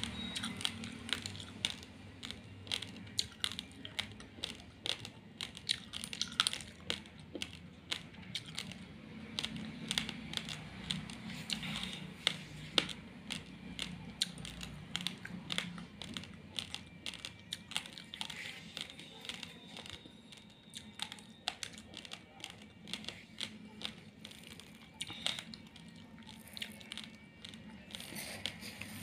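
Raw long-grain rice being chewed close to the microphone: a dense, irregular run of sharp cracks and clicks as the dry grains break.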